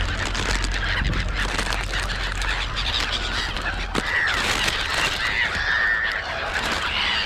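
A flock of black-headed gulls and crows calling, many cries overlapping at a feeding spot.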